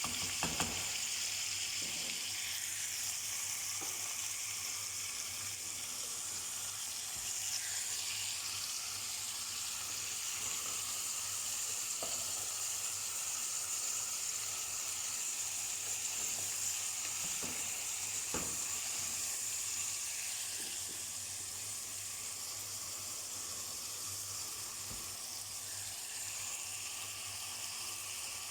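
Food sizzling steadily in hot oil in a pan, with a few sharp clicks of a utensil against the pan as it is stirred.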